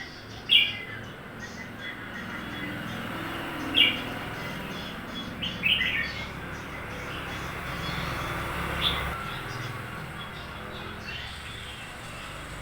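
Red-whiskered bulbul calling in short, loud, quickly falling phrases, four times: about a second in, near four seconds, around six seconds and near nine seconds, over a steady low background hum.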